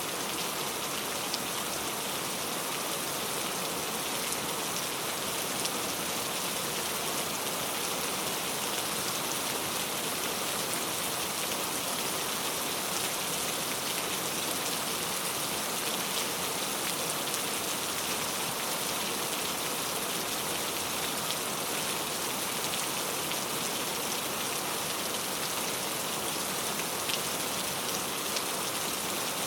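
Steady rain falling: an even hiss with a few scattered distinct drops.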